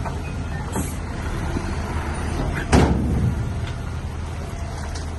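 Bulldozer's diesel engine running steadily under load, with a single loud clank almost three seconds in.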